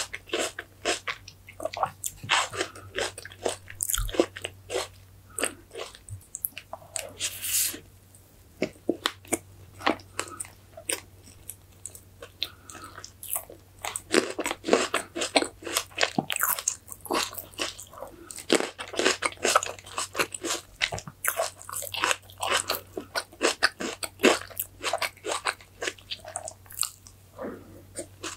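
Close-miked eating sounds: crisp bites and wet chewing of green grapes and strawberry cream cake in quick succession, with a quieter stretch partway through.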